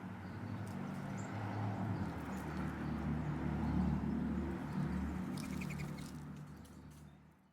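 Faint bird chirps, a quick run of high notes about five seconds in, over a steady low hum of outdoor background noise; the sound fades out at the end.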